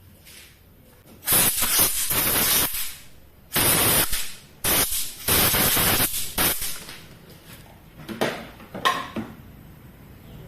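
Pressurised spray hissing in four loud bursts of about one to two seconds each, then two fainter short ones near the end, used to clean an engine's gasket faces.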